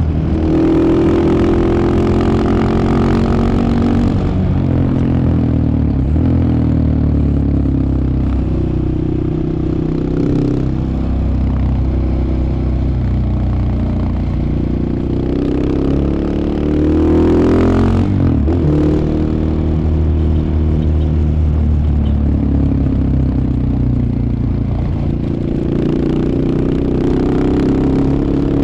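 KTM 690 Enduro R's single-cylinder engine running under way, its pitch climbing and falling through the gears, with a sharp rev rise and drop about two-thirds of the way through.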